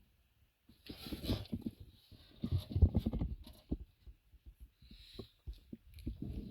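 Irregular dull low thumps and rustling, starting about a second in.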